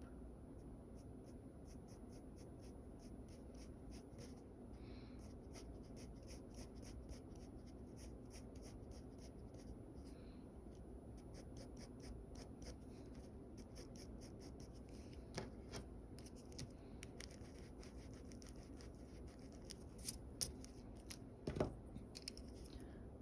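Faint sketching strokes on paper, a quick run of short scratches over a steady low hum, with a few louder taps near the end.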